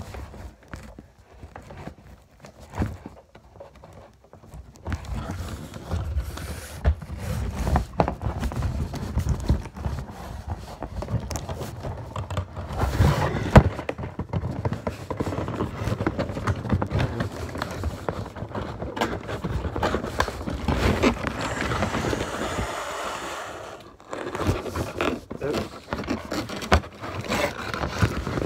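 Irregular scraping, rustling and knocking of a toy helicopter's box and packaging being handled and opened, quieter for the first few seconds and busier after that.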